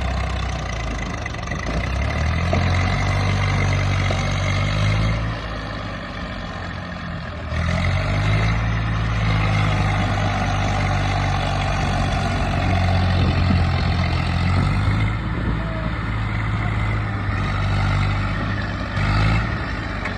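Eicher tractor's diesel engine running, its low note dropping back for a couple of seconds near the first third and then rising again, with further shifts in speed.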